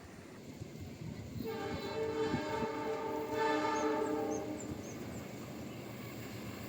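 Train horn sounding one long chord-like blast of several steady tones, about three seconds long, over the rumble of a train.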